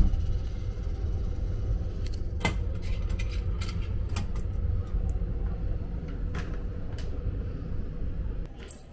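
Steady low rumble inside a sleeper-train carriage, with a faint steady hum and a few sharp clicks; the rumble drops away near the end.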